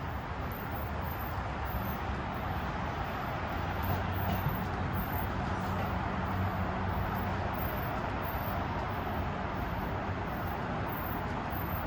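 Amtrak Vermonter passenger train pulling out of the station: a steady rumble with a low hum, a little louder midway.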